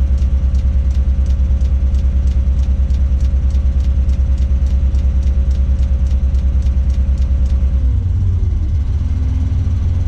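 Tadano 180G-5 crane's diesel engine running at raised speed, heard inside the operator's cab, with a pulsing rumble and a light ticking about three times a second. About eight seconds in, the ticking stops and the engine drops back to a lower speed, its note falling.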